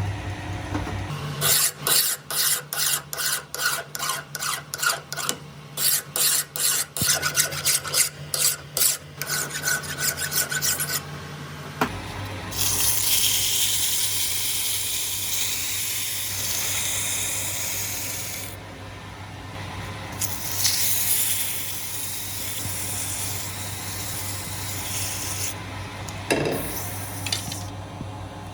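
Filing on a hammer during restoration: quick back-and-forth rasping strokes, about two a second, for the first ten seconds or so. Then a steady, unbroken rasping noise that pauses briefly partway through.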